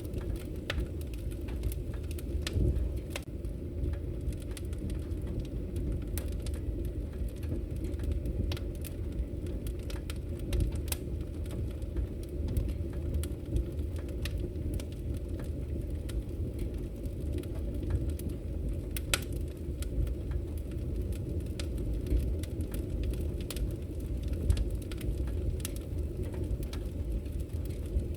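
Wood fire crackling in a fireplace: a steady low rumble of burning logs with scattered sharp crackles and pops, a few of them louder.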